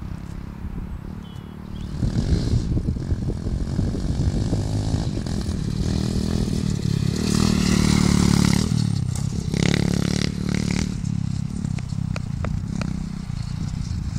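Pit bike engine running and revving, getting louder about two seconds in and loudest a little past the middle, with scraping and clattering over it.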